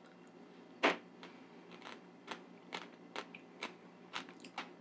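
Whole hackberries being chewed, the hard seed shells cracking between the teeth in a run of sharp, very crunchy cracks. The loudest comes about a second in, followed by a dozen or so lighter ones.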